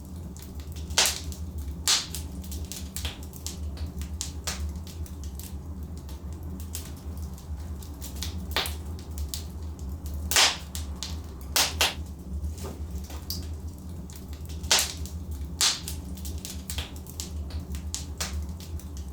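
Wood logs burning in a fireplace: a steady low rumble with irregular sharp crackles and pops, a few of them louder than the rest.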